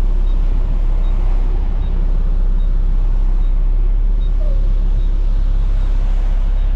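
Front-load garbage truck's engine running steadily, heard from inside the cab, with a faint tick repeating a little more than once a second.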